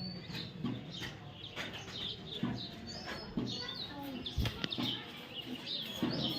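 Baby parrot calling with many short, high chirps and squeaks in quick succession.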